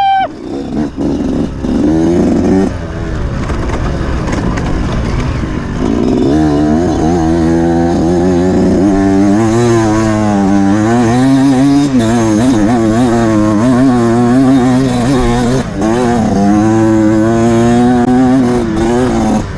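Off-road motorcycle engine running under load, its note rising and falling constantly with the throttle. It sounds broken and lower for the first few seconds, then runs continuously from about six seconds in.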